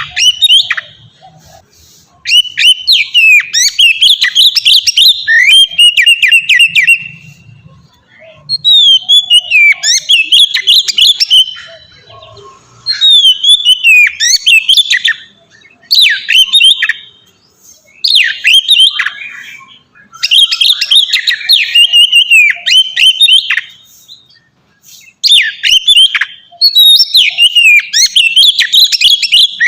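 Oriental magpie-robin (kacer) singing in its loud, open 'ngeplong' style. The song comes as quick, varied whistled phrases a few seconds long, with short pauses between them.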